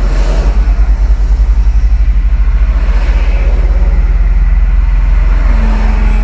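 Car interior noise while driving: a steady low road rumble with a fast, even pulsing flutter. A steady low hum joins near the end.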